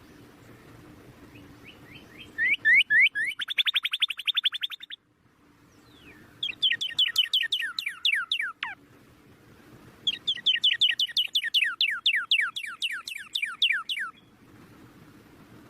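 Baby birds' begging chirps: fast trains of high, downward-sliding chirps in three bursts of a few seconds each.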